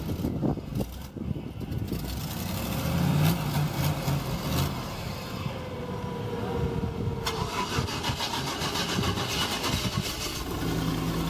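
A monster truck's small-block Chevy V8 starting up and settling into an idle, running fairly quiet.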